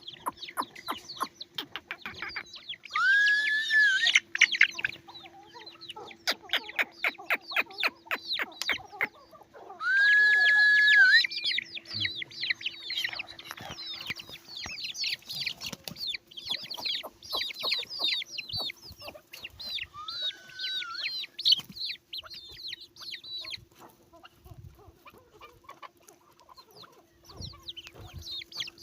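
A group of Indian parrot-beak chicken chicks peeping rapidly and continuously. Two louder, drawn-out calls held on one pitch stand out about three seconds and ten seconds in, with a weaker one near twenty seconds. A steady low hum runs underneath.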